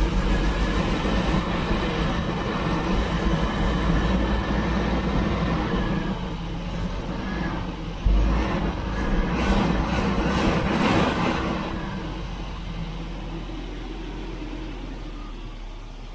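Volvo B230F four-cylinder engine running at idle, with a louder, rougher spell from about eight to twelve seconds in before it settles back down.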